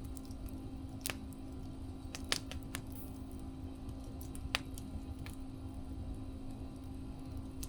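Wood fire crackling: scattered sharp pops and snaps over a low, steady rumble of burning, with a faint steady hum beneath.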